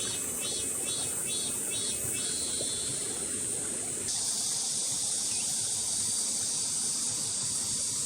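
Outdoor summer insect chorus: a steady high-pitched buzz, with a second insect pulsing about three times a second for the first couple of seconds. About four seconds in a broader, lower hiss-like buzz joins.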